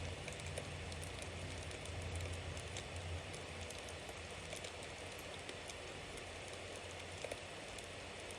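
Bonfire burning: a steady hiss of flames scattered with many small crackles and pops from the burning wood, over a low rumble.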